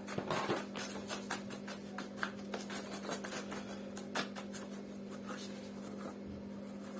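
Light clicks and taps of hands handling the opened vacuum cleaner's parts and wiring, thick in the first four seconds or so and sparse after, over a steady low hum.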